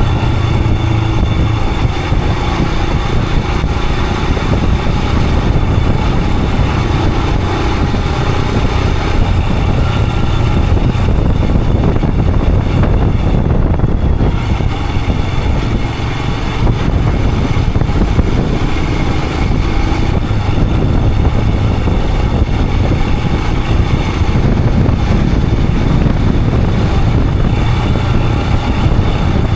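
Royal Enfield Himalayan 411's single-cylinder engine running steadily while the motorcycle is ridden along the road.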